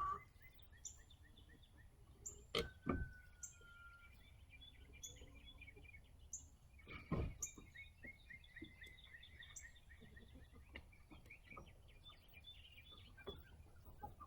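Faint outdoor ambience with small birds chirping in short repeated calls, and a couple of sharp knocks.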